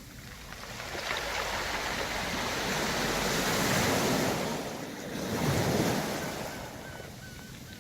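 Waves washing up a round-pebble beach, the surf swelling about a second in, cresting twice, then drawing back near the end, with pebbles rolling in the wash.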